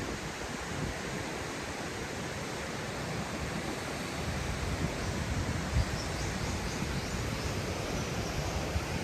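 Steady rushing of a waterfall, with wind gusting on the microphone as a low rumble from about four seconds in.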